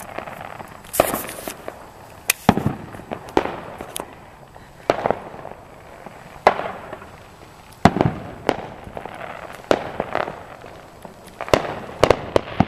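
Aerial fireworks going off overhead: about a dozen sharp bangs at irregular intervals, some with a short echoing tail.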